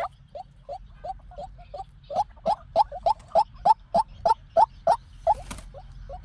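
White-breasted waterhen calling: a long, even series of short hoarse notes, about three a second. The notes are softer for the first couple of seconds and grow louder from about two seconds in.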